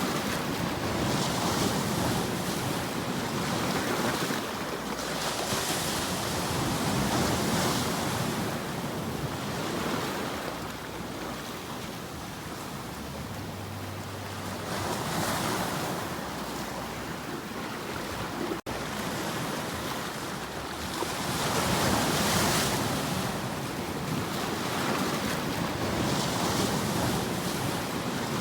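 Waves breaking and washing on a shore, the surf swelling and falling back every several seconds, with a split-second dropout about two-thirds of the way through.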